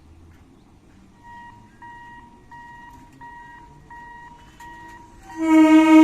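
A level-crossing warning signal beeps in an even repeating pattern, about one and a half beeps a second, over a low rumble of traffic. About five seconds in, the approaching local train's horn sounds loudly.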